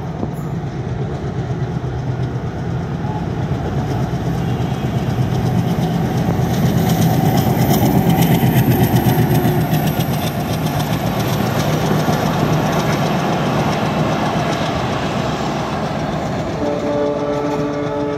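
A diesel locomotive hauling passenger coaches passes, its engine drone and the rumble of wheels on rails swelling to a peak midway and then easing. Near the end the train's horn sounds, a steady multi-note blast.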